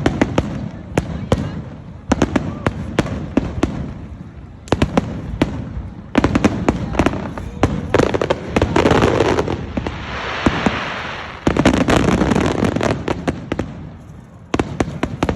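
Fireworks display: a rapid series of sharp bangs and crackles, with a dense stretch of crackling about halfway through. The bangs thin out near the end.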